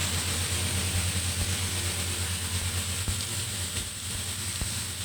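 Disinfectant fogging machine spraying as it passes, a steady low engine drone under an even hiss, a little quieter near the end.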